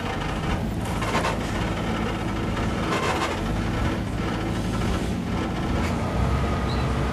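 Heavy vehicle engine running steadily, a low rumble with a few brief swells of hiss.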